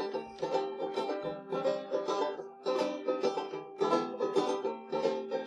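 Plucked string instrument picking a quick instrumental break in a country-style song, with rapid, evenly spaced notes.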